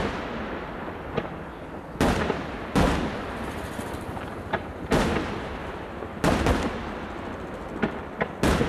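Aerial firework shells bursting: about half a dozen heavy bangs at irregular intervals of one to two seconds, each trailing off in a long echoing rumble, with lighter cracks in between.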